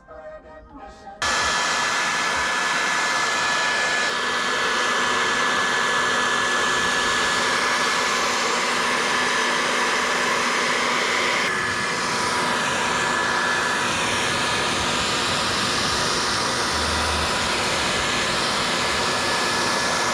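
Hot-air blower running steadily, a loud fan rush with a faint steady whine, heating the tint film so it softens and smooths onto the headlight. It switches on about a second in and cuts off suddenly at the end.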